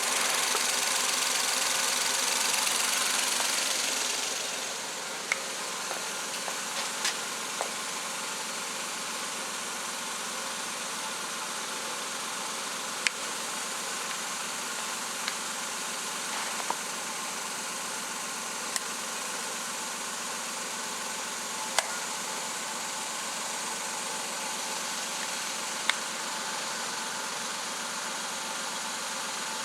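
Suzuki K6A 660 cc three-cylinder engine running, a little higher for the first four seconds or so, then settling to a steady idle. A few sharp isolated clicks sound at irregular intervals over it.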